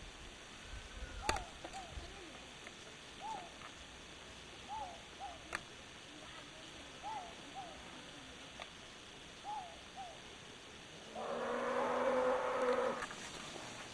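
A bird calling again and again, a short rising-and-falling note, often doubled, every two seconds or so, over a quiet outdoor hush with a few sharp clicks. About eleven seconds in comes the loudest sound, a long drawn-out pitched call held for about two seconds.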